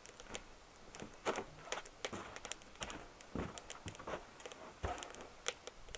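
Wood fire crackling in the firebox of a BioLite Basecamp stove: irregular sharp pops and snaps, a few louder ones a couple of times.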